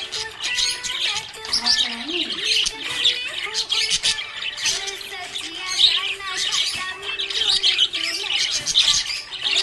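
Budgerigars chirping and chattering in a dense, continuous flurry of rapid high twitters, with a slow melody of sustained low tones playing underneath.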